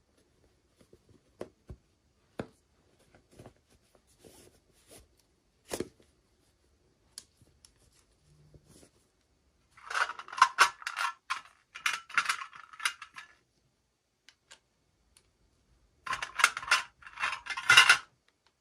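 Small toy packaging being handled and opened by hand: scattered light clicks and taps, then two stretches of rapid scratchy rustling and crackling, about ten seconds in and again near the end.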